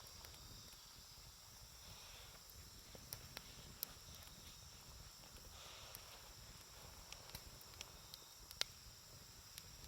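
Burning campfire wood crackling: scattered sharp pops, the loudest about two-thirds of the way through, over a faint steady hiss.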